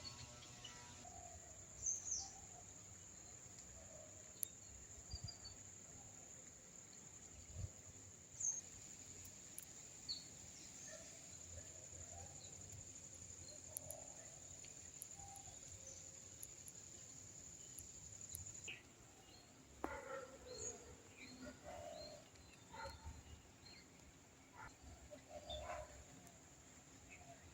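Faint outdoor ambience of birds chirping and calling at intervals over a steady high-pitched insect drone. The drone cuts off about two-thirds of the way through, and the bird calls become busier after that.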